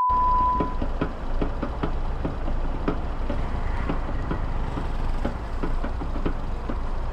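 A steady beep for about the first second, then a motorcycle engine idling at a standstill with a low steady rumble.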